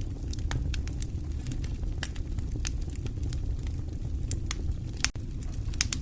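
Fire crackling: irregular sharp pops and snaps over a steady low rumble of flames, with a momentary dropout about five seconds in.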